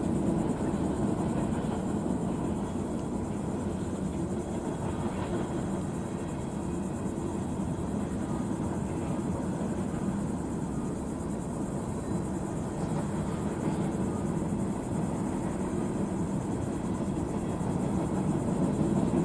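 Freight cars of a CSX mixed freight train rolling over a bridge: a steady rumble of steel wheels on the rails.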